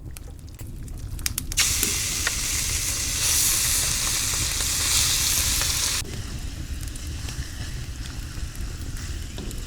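Food sizzling on a hot steel saç griddle over a wood fire: a few sharp clicks, then a loud sizzle starts suddenly about a second and a half in and eases to a softer sizzle past the middle.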